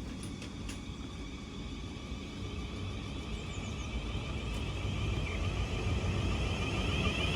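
Passenger multiple-unit train approaching, its low rumble and steady high running tones growing steadily louder.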